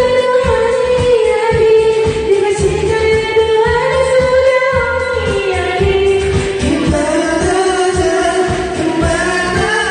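Singing a Korean pop song over a karaoke backing track, with held notes over a steady beat.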